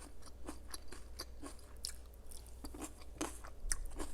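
Close-miked chewing of crunchy food, with irregular crisp crunches several times a second.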